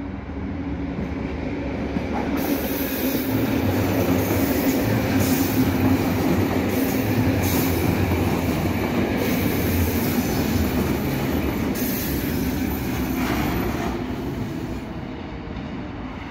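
Electric commuter train passing close by on the rails and running into a tunnel. Its wheel and rail noise and a steady hum build for the first few seconds, stay loud through the middle, then die away over the last few seconds.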